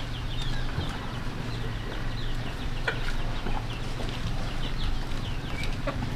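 Chickens cheeping: many short, high, falling peeps overlapping one another, over a low steady hum.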